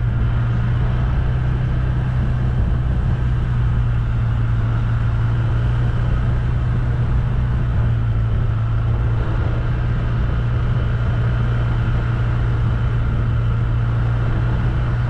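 Motor vehicle engine running at a steady speed, heard from on board as a constant low drone with road noise.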